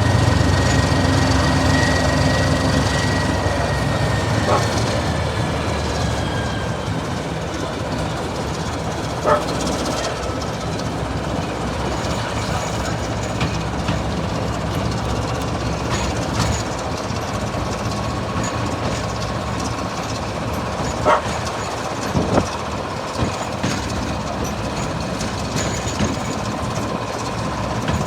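Train hauled by Class 14 diesel locomotive D9526 running along the line: a steady rumble of wheels on rail with scattered clicks over the rail joints. A diesel engine note dies away in the first few seconds, and faint high whines slowly fall in pitch.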